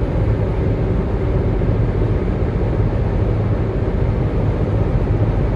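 Steady low road rumble of a car driving, heard from inside the cabin, with a constant low hum.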